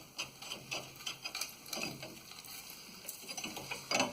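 Irregular light clicks and scraping of hand work on the rusty rear suspension parts, with a louder knock near the end.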